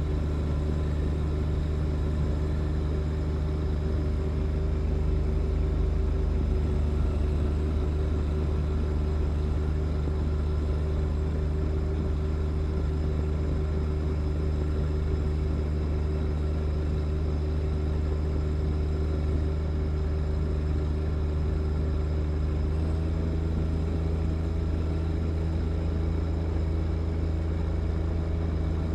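John Deere 1025R compact tractor's three-cylinder diesel engine running steadily, its note shifting slightly about two-thirds of the way through.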